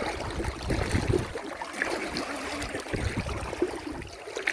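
Water sloshing and trickling in an uneven, noisy wash, with heavier low surges in the first second and a half and again around three seconds in.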